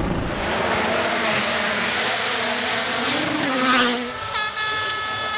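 Rally car engine revving hard, its pitch rising and falling through the gears over loud gravel and tyre noise, with a loud rush as it passes close about four seconds in. A steady, horn-like held tone follows.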